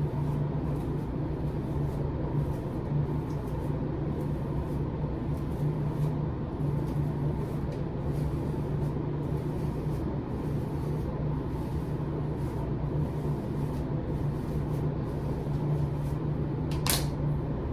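A steady low mechanical hum with a soft noisy haze, and one short sharp noise near the end.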